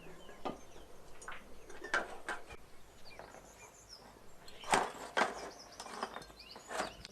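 Stone dizi pot lids clinking and knocking against the pots as they are handled and set in place: about eight short, sharp hits spread irregularly, the loudest a little before and after five seconds in and near the end.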